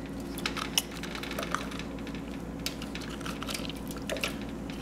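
Budgie bathing: small splashes, drips and wet flicks of its wings and feathers, as scattered short clicks over a steady low hum.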